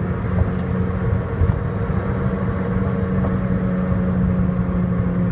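Toyota Matrix XRS's 2ZZ-GE four-cylinder engine running at a steady high speed of about 5,000 rpm, heard from inside the cabin over road and wind noise.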